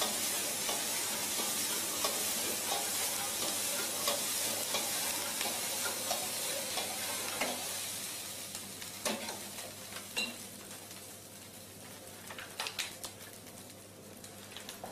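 Egg fried rice sizzling in an automatic stir-fry machine's wok as the mechanical stirring paddle turns it over. About halfway through, the sizzle dies down and scattered clicks and taps are left.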